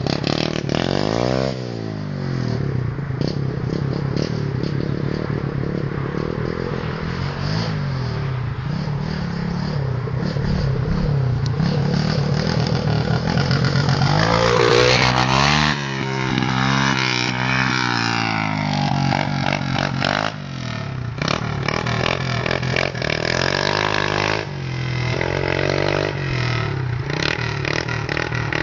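Pit bike engine running and being revved, its pitch rising and falling, with a big rev about halfway through. Clattering and scraping knocks run through the later part.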